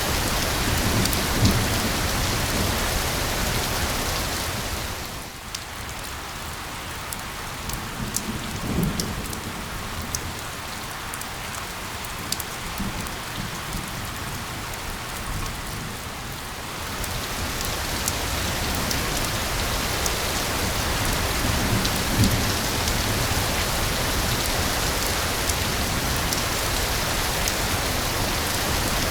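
Steady rain falling. It eases to a lighter patter with single drops standing out from about five seconds in, then grows heavier again after about seventeen seconds, with a few brief low rumbles.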